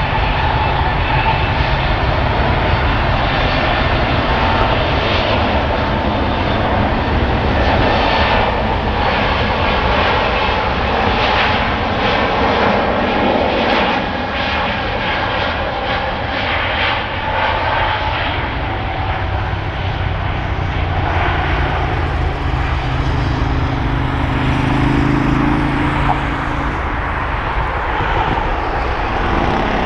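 Airbus A320neo's Pratt & Whitney geared turbofan engines at takeoff power, a loud, steady jet noise with a high fan whine, as the airliner takes off.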